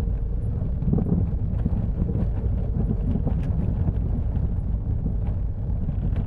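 A car rolling slowly, heard from inside the cabin: a steady low rumble with irregular knocks and ticks from the right front suspension. These are the signs of play in the front suspension ball joint, which the mechanic traced to a worn joint.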